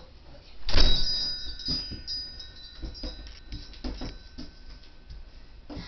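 A bell-like chime struck once about a second in, several clear tones ringing and fading over about three seconds, followed by a few light knocks and rattles.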